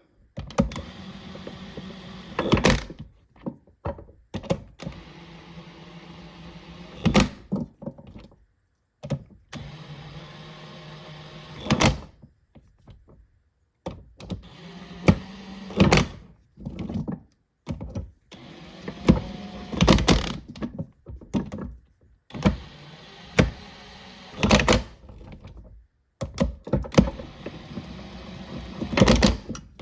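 Cordless impact wrench running bolts down around a transmission case in short bursts of whirring, a dozen or so, separated by pauses, with sharp knocks in and between the runs.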